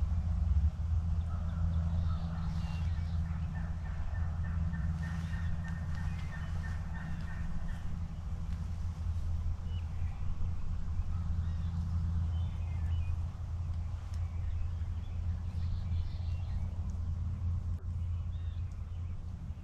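Turkey yelping: a rhythmic series of calls, about four a second, lasting roughly four seconds and starting a few seconds in. A steady low rumble runs underneath.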